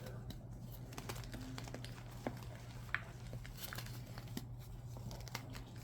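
Crunchy crinkling and crackling from something being crushed and worked by hand, with scattered sharp clicks over a steady low hum.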